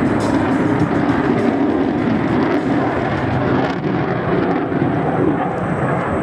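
Loud, steady jet noise from an F-22 Raptor's twin Pratt & Whitney F119 turbofan engines as the fighter flies its demonstration maneuver.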